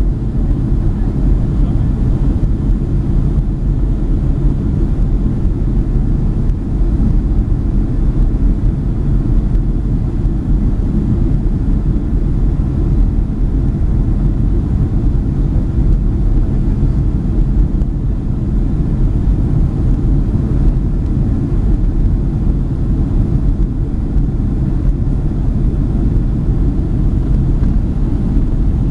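Steady low rumble inside the cabin of a Boeing 767-300ER on approach: the jet engines and the airflow around the fuselage, with no sudden events.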